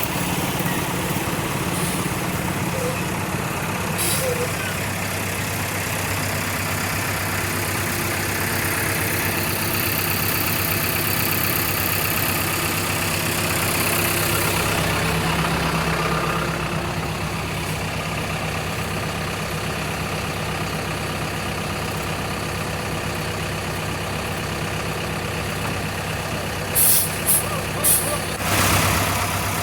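Truck diesel engine idling steadily, its note shifting about halfway through. A few short, sharp bursts of hissing air near the end.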